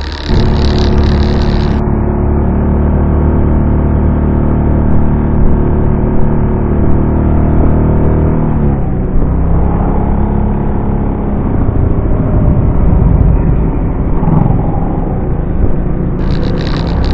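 Motorcycle engine running under way, picked up by a camera strapped to the bike. Its note holds steady, drops about eight seconds in, then rises and falls.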